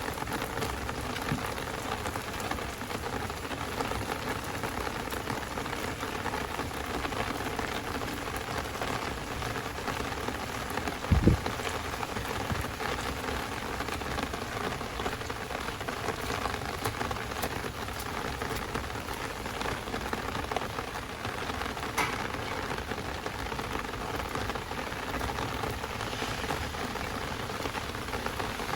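Heavy rain falling steadily, an even hiss of drops. About eleven seconds in there is a single loud low thump, the loudest moment, and a fainter sharp tick comes later.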